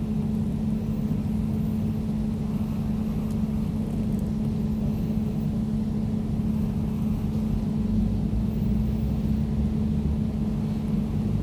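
Air conditioner running steadily: a low, even hum with a rushing-air hiss over it.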